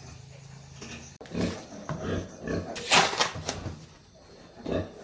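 Pigs calling in a run of short squeals and grunts, starting about a second in.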